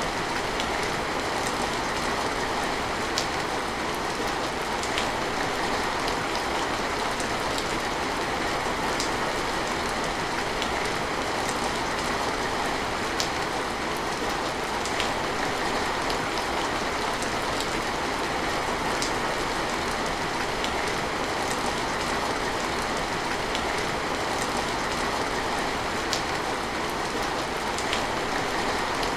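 Steady rain falling, an even wash of sound with scattered distinct drops ticking through it.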